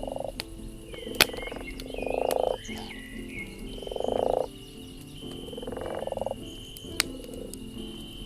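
A frog croaking four times about two seconds apart, each call a rapid pulsing that swells in loudness over about half a second. A steady high insect drone runs underneath, and a campfire gives two sharp pops.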